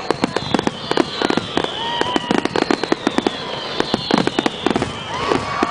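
Fireworks finale barrage: rapid, overlapping bangs and crackles, several at a time, with long high whistles that fall slowly in pitch and more whistles rising and falling near the end.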